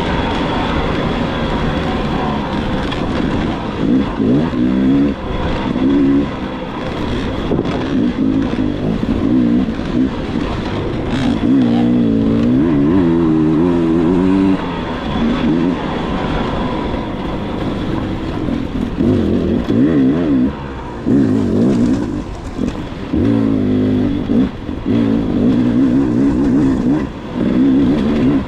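Dirt bike engine revving up and down as the bike is ridden hard, its pitch rising and falling over and over with the throttle, with short drops in between.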